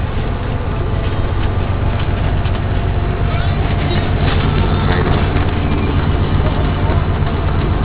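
A vehicle engine running steadily with road noise, a constant low drone.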